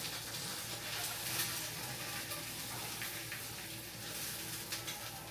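Steady hissing kitchen noise, with a few faint clicks.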